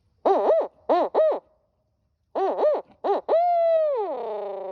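Brute Hoot owl call blown to imitate a barred owl's hooting: two phrases of short hoots, the second ending in a long drawn-out note that drops in pitch at the end.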